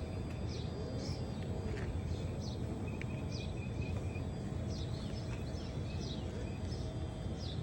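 Small birds chirping, short high downward chirps repeating every half second or so, over a steady low rumble.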